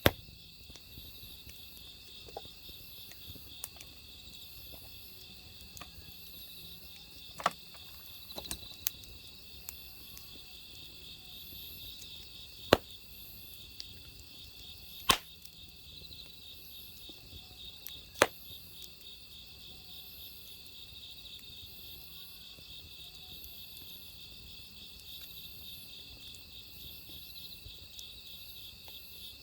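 Crickets chirping in a steady, rapidly pulsing trill, joined by a wood fire crackling, with several sharp pops scattered through the middle.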